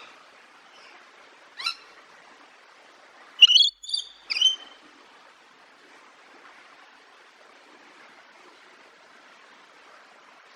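A bird calling: one short call about one and a half seconds in, then a quick run of three or four sharp calls about two seconds later, over a steady faint hiss.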